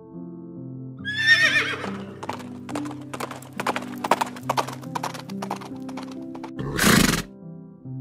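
A horse whinnies with one wavering, shaking call about a second in, then hooves clip-clop in a quick, uneven run of knocks. A short, loud burst of noise comes near the end, over background music with soft sustained notes.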